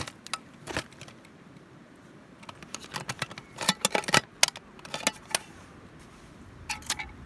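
Metal camp cookware, an army-style mess tin with its lid and bail handle, clinking and rattling as it is handled: a run of sharp clicks and clinks, busiest in the middle, with a short ringing clink near the end.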